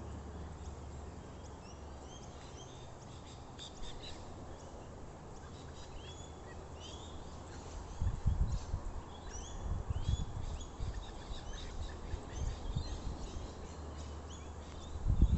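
Birds chirping: many short, high chirps repeated throughout. About halfway in, low rumbling bursts come and go, as of wind or handling on the microphone.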